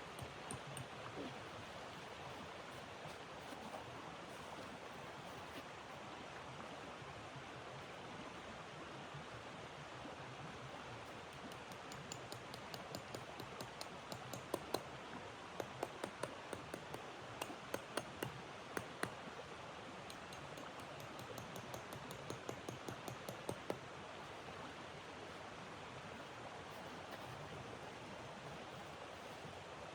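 Wood stove fire crackling in sharp, irregular pops through the middle of the stretch, over a steady rushing noise.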